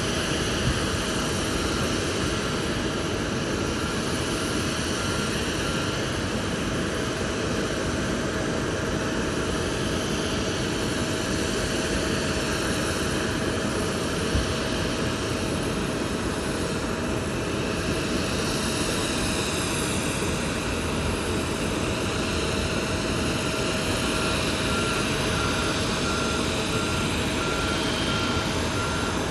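Steady jet aircraft noise at the airport. A vehicle's reversing alarm beeps at the start, stops after several seconds, and starts again near the end.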